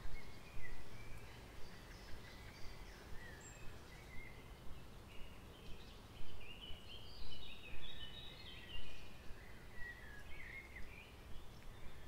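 Small birds chirping and twittering, busiest in the second half, over a steady low outdoor rumble.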